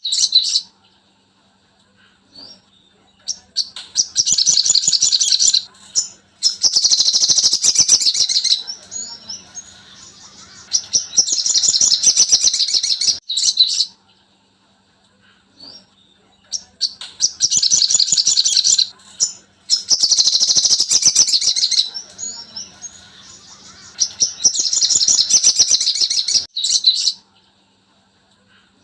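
Songbird song of high, fast chattering trills in bursts of a couple of seconds with short quiet gaps, the same sequence repeating about halfway through as a looped 'masteran' training recording. A faint steady low hum runs underneath.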